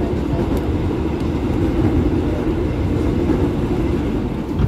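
Electric commuter train running at speed, heard from inside the passenger car: a steady rumble of wheels on rail and running gear.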